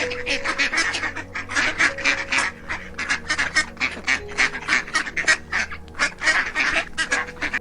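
Waterfowl calling in a rapid, noisy chatter of short honks and quacks, about five a second, which stops abruptly.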